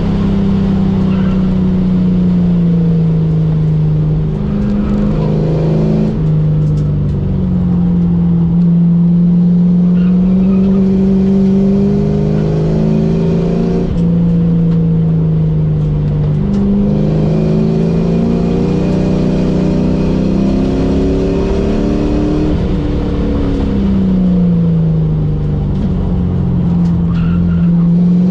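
Car engine running hard at speed on a race track, heard from inside the cabin, its pitch climbing and dropping back several times as the car accelerates, shifts and slows for corners, over steady road and wind noise.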